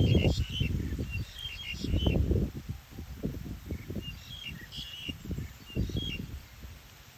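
Small birds chirping in short clusters, twice, over an irregular low gusty rumble of wind on the microphone that eases off toward the end.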